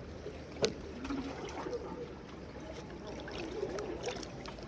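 Water lapping and trickling against a breakwater, with one sharp click about half a second in and a few smaller clicks scattered after it.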